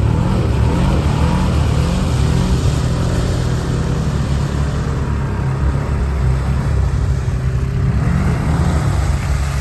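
ATV engine revving up and down several times, then held at steady revs, wavering again near the end.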